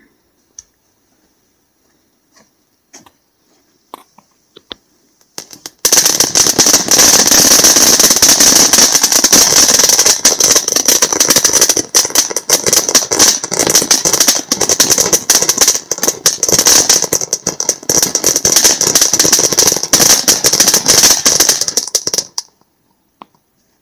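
Ground firework fountain going off. A faint fuse hiss comes first. About six seconds in it ignites into a loud spray of hissing with dense crackling, which runs for about sixteen seconds and then stops abruptly.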